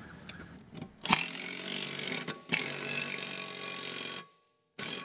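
Cordless power driver tightening a lawn mower's blade bolt: two runs of about a second and a second and a half, then a short burst near the end. Light metal clinks from the blade parts come before it.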